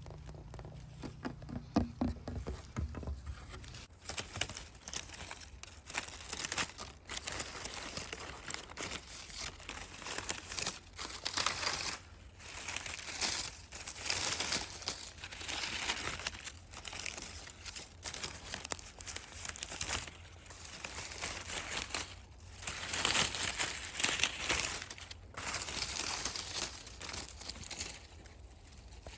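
Dry leaves crinkling and crackling in irregular bursts of a second or two.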